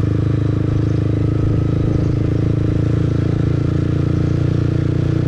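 Motorbike engine running steadily while riding, heard from the rider's seat, its pitch holding even throughout.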